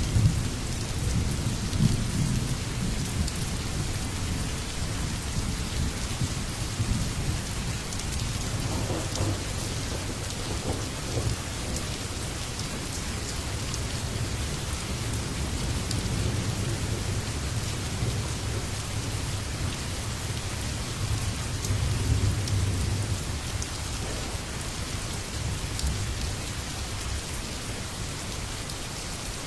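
Steady heavy rainfall with thunder rumbling low and continuously underneath, swelling louder near the start and again about two-thirds of the way through.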